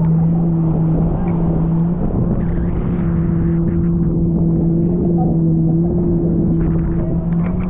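Party boat's motor running at a steady speed: one constant hum over a rough low rumble.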